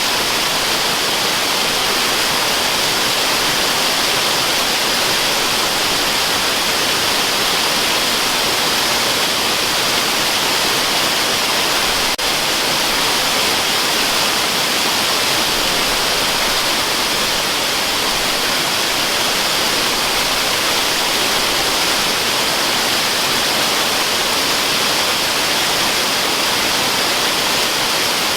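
Waterfall rushing in a steady, unchanging hiss, heaviest in the upper range, used as white noise for sleep. A brief tick about twelve seconds in.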